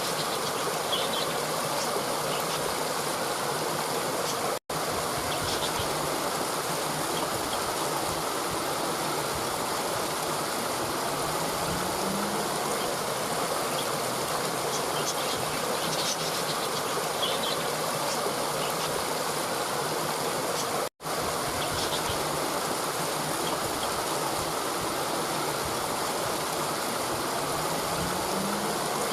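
Steady rushing of a stream of running water, with faint high chirps now and then above it. The sound cuts out for an instant twice.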